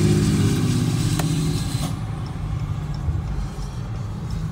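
Car engine running with a steady low hum that fades away over the first two seconds, leaving a quieter rumble, with a single click about a second in.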